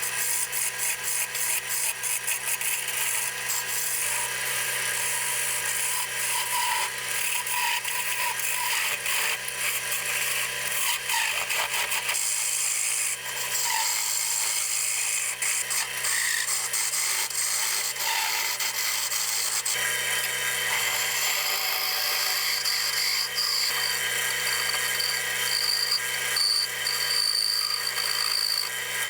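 Wood lathe running with a steady motor hum while a hand-held turning tool cuts and scrapes a small spinning wooden spindle, a continuous scratchy rasping with many small ticks.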